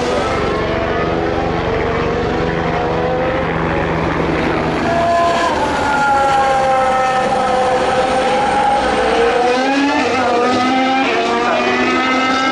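Formula 1 cars' 1.6-litre turbocharged V6 hybrid engines running at high revs, the engine note sweeping down and back up, then climbing in steps through upshifts near the end.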